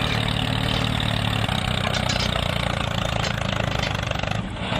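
Tractor engine running steadily at idle, with a brief dip in level shortly before the end.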